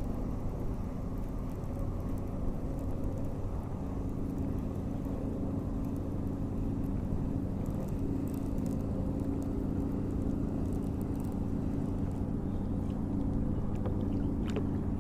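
Steady low motor hum with several even tones, a boat motor running at constant speed.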